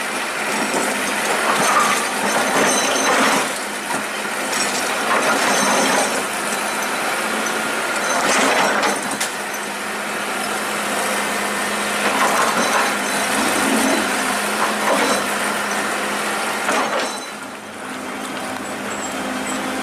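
Excavator working: its diesel engine running with a steady hum, with louder rough surges of noise every few seconds as it digs and loads.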